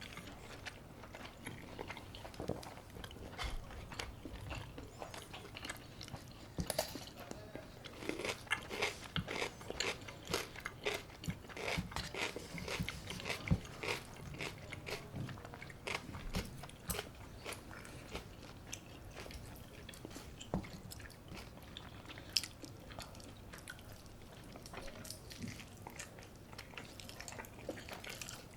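Close-miked eating: repeated crunchy bites and chewing, the crunches coming thickest in the middle of the stretch.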